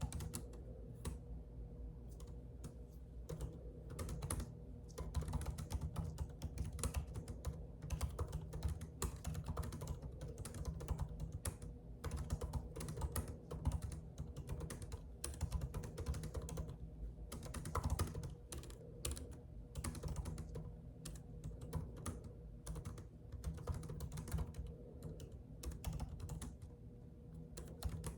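Typing on a computer keyboard: a continuous, irregular run of key clicks, over a steady low hum.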